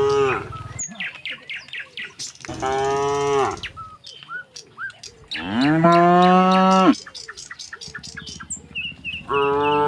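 Cattle mooing: a call fading out at the start, then three long moos about three seconds apart, the middle one the loudest, the last beginning near the end. Small birds chirp between the moos.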